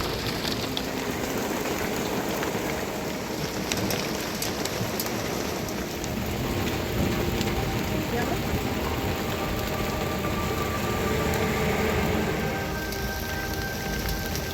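Steady rain falling and pattering on surfaces, with scattered drop impacts.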